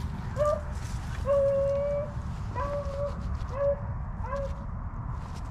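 A hunting dog whining in five drawn-out, even-pitched calls, the second one longest and loudest.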